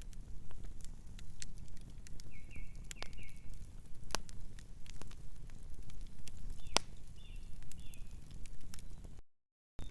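Wood fire crackling, with sharp pops over a steady low rumble of the flames. A distant bird gives two short bursts of chirps, and near the end the sound cuts out completely for about half a second.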